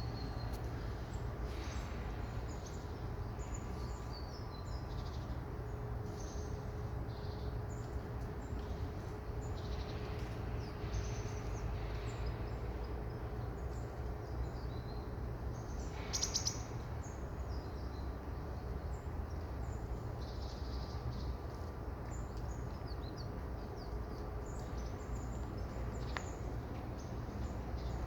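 Many small birds chirping in short, scattered calls over a steady low background rumble, with a brief louder burst of chirps about 16 seconds in.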